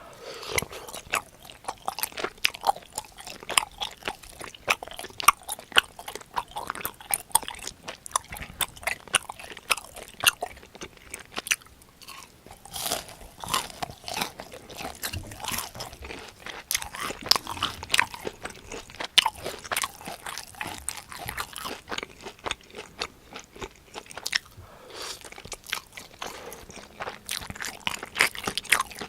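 Close-miked eating: biting and crunchy chewing of crisp-fried cheese pork cutlet, a dense run of sharp crackles with a few short pauses.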